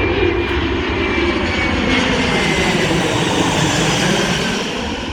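Airbus A320 airliner passing close on its landing approach. Its jet engines make a steady rushing roar with a faint high whine that drifts slightly lower in pitch, and the noise eases a little near the end.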